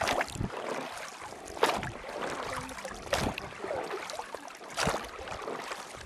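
Oars dipping and splashing in river water in a steady rowing rhythm, a stroke about every second and a half.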